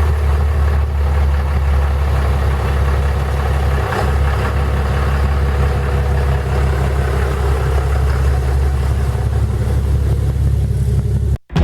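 Pickup truck engine idling steadily with a deep rumble, cutting off abruptly near the end.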